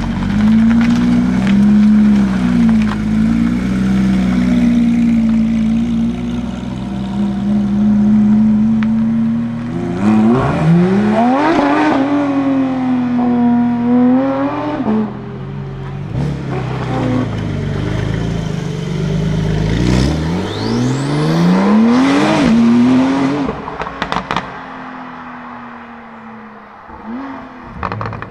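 Porsche 911 flat-six engine, first a steady low running note as the car moves off, then hard revving from about ten seconds in, the pitch sweeping up and down through the gears twice before the sound fades as the car drives away.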